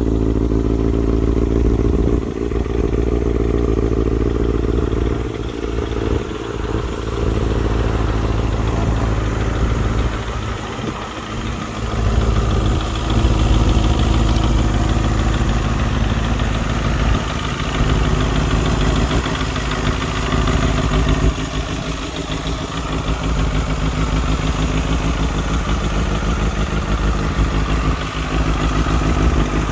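Kawasaki Balius II's 250 cc inline-four idling steadily through a BEET NASERT-R full-titanium exhaust.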